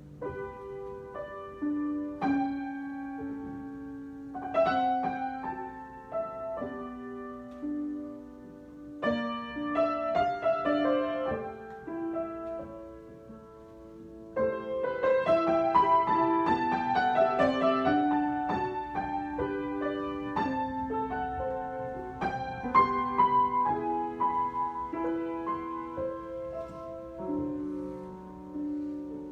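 Solo piano improvisation: chords and a melody line played freely, growing louder and busier about halfway through.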